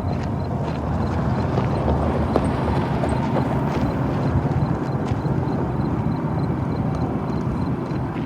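Freight train rolling past: a steady heavy rumble with irregular clicks and clatter of wheels over the rails.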